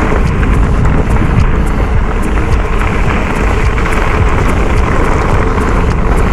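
Steady wind noise buffeting the camera microphone while riding a bike, a loud rushing rumble.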